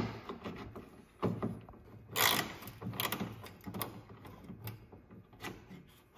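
Scattered clicks and knocks of a hand tool working a fastener loose on a truck's front trim, with one short, louder rasp about two seconds in.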